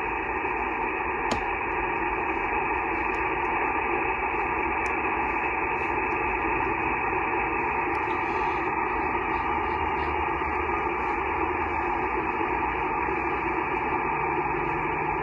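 Shortwave receiver static from a Yaesu FT-891 transceiver tuned to 15-metre SSB: a steady band noise hiss, cut off above about 3 kHz by the receiver's narrow voice filter, with no clear voice on frequency.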